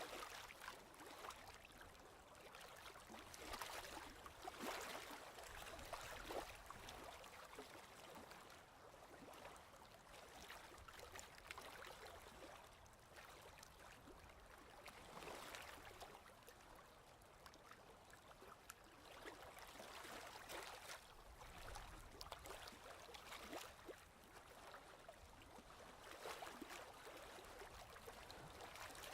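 Faint ocean waves washing, swelling and fading in slow surges every several seconds.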